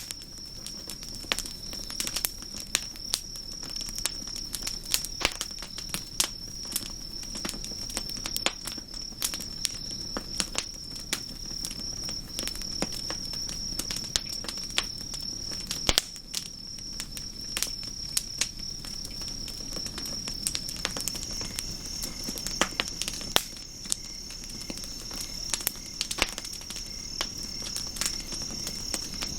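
Wood campfire crackling, with irregular sharp pops and snaps, over a steady high trill of crickets. A second, lower insect trill joins about two-thirds of the way through.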